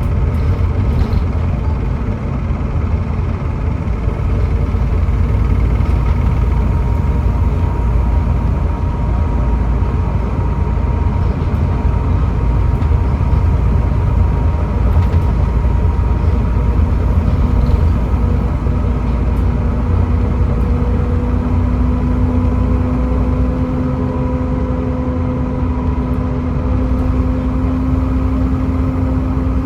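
Volvo B7TL double-decker bus with its Volvo D7C 7.3-litre diesel and ZF Ecomat gearbox, running with a steady low rumble. About halfway through, a whine comes up and rises slightly in pitch.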